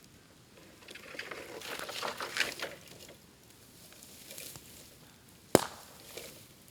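Bamboo burning in an open fire: a spell of dense crackling and snapping about a second in, then a single sharp, loud pop near the end, typical of a bamboo culm bursting in the heat.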